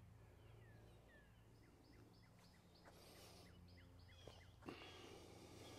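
Near silence outdoors, with a small bird faintly chirping a run of short, quick falling notes through the first few seconds.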